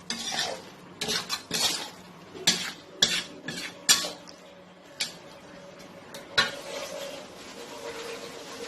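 A spoon stirring thick chicken thokku in a cooking pan, scraping and clinking against the metal in quick strokes, with a steady sizzle from the pan after the last strike about six seconds in.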